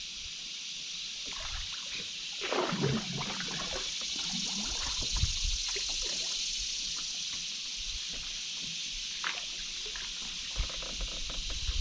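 Water gurgling and trickling from a canoe paddle stroke, strongest from about two and a half seconds in, over a steady high hiss, with a few light knocks near the end.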